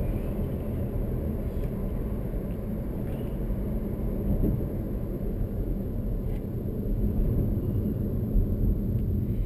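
Steady low road and engine rumble inside the cabin of a 2021 Chevrolet Malibu being driven.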